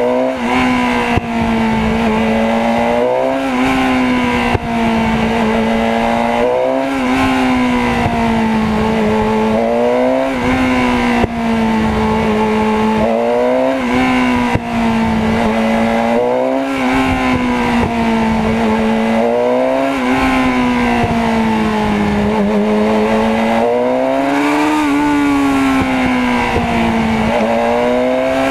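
Motorcycle engine running while riding in traffic. Its pitch rises and falls with the throttle, climbing and dropping back every few seconds, over a steady wash of road noise.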